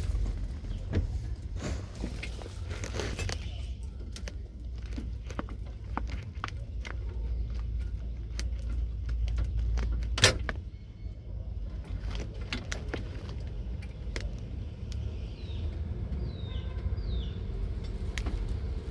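Kia Rhino truck engine running with a steady low rumble, under frequent clicks and metallic rattles, with one sharp knock about ten seconds in.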